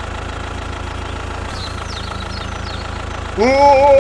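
Steady low engine idling hum. About three and a half seconds in, a high-pitched, sped-up cartoon-style voice starts over it.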